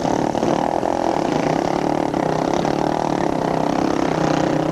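Several motorcycle engines running at once, their pitches overlapping and wavering as riders rev them.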